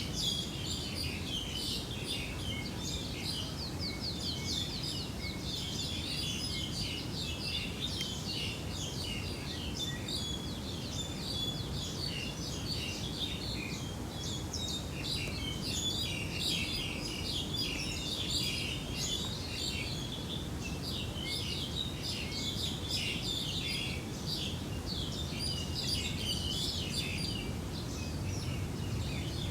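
Many small birds chirping and twittering without pause, over a steady low background rumble.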